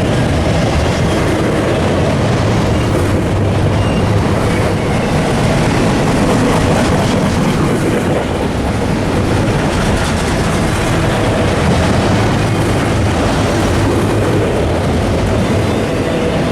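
A train running on the rails: a loud, steady rumble with wheel-on-rail clatter.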